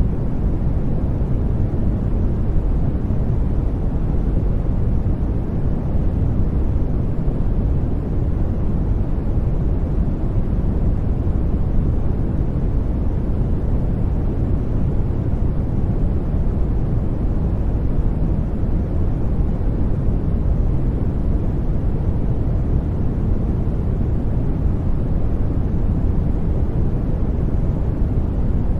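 Steady sleep noise: an even, deep hiss weighted toward the low end with little treble, unchanging throughout.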